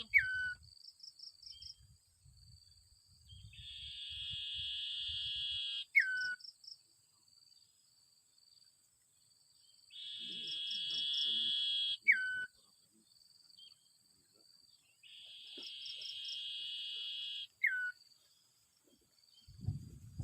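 Small songbird call repeated four times, each a buzzy trill of two to three seconds ending in a short falling whistle, over a thin, steady high insect drone.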